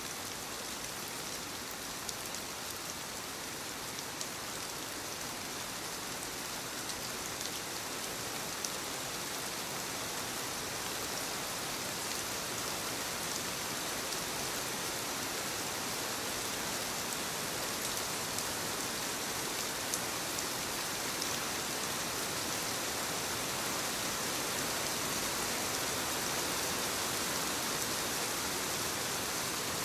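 Steady light rain falling on leaves: an even patter with scattered individual drop ticks, growing slightly louder.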